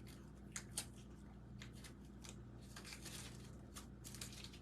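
Faint, scattered clicks and rustles of lace and ribbon being handled and snipped by hand, over a steady low electrical hum.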